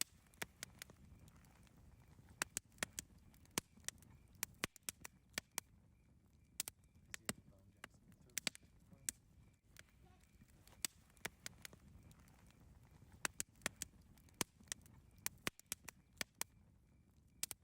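Campfire crackling: irregular sharp pops and snaps, several a second, over a low, steady rumble of burning wood.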